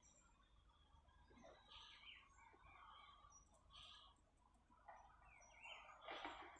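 Faint songbirds chirping in a birch wood: scattered short calls and little up-and-down notes, with one louder, noisier burst near the end.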